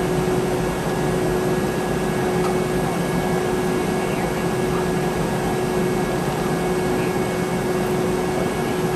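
Steady drone of a Boeing 717's rear-mounted Rolls-Royce BR715 turbofans heard inside the cabin, with a constant mid-pitched whine over even air noise.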